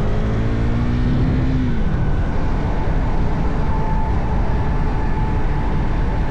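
Motorcycle engine accelerating: its pitch climbs for about a second and a half, then falls away as the throttle closes. Heavy wind noise on the microphone takes over for the rest.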